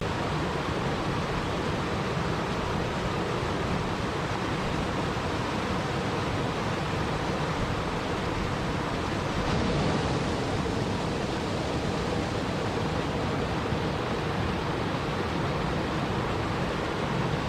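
Steady rushing water noise, even and unbroken, swelling slightly about halfway through.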